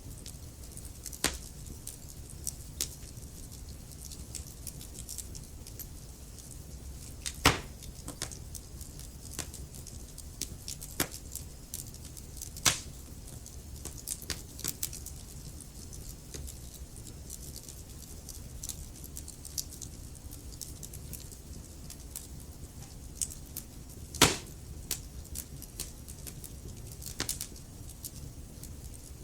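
Wood fire crackling in a fireplace: a steady low rumble of burning with scattered sharp snaps and pops from the burning logs. Three louder pops stand out, about a quarter of the way in, a little before halfway, and about five-sixths of the way through.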